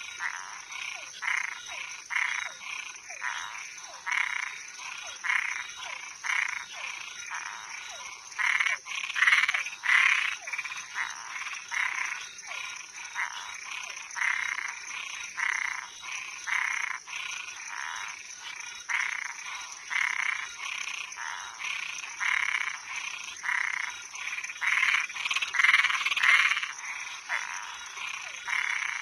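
A chorus of frogs and treefrogs calling, short croaking calls repeating one to two a second, several animals overlapping and growing louder around a third of the way in and again near the end. A steady high-pitched insect drone runs beneath.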